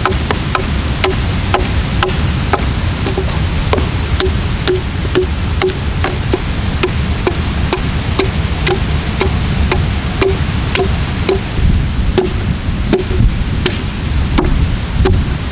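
Ushkuy axe hewing a log with quick, light blows, about two to three a second, each a sharp knock with a short low ring, over a steady low background noise.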